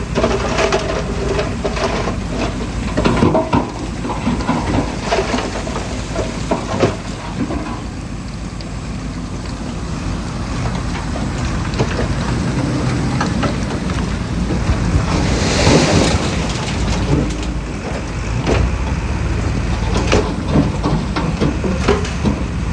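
Heavy diesel earthmoving machinery running under load, with frequent clattering and crunching of stone, and a brief hiss about sixteen seconds in.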